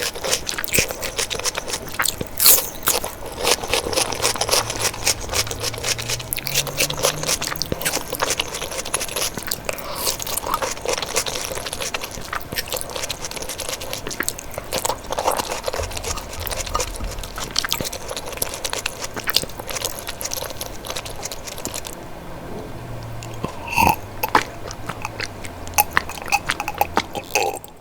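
Close-miked eating sounds: a person chewing and crunching food with wet mouth clicks, irregular and continuous, with a few louder crunches near the end.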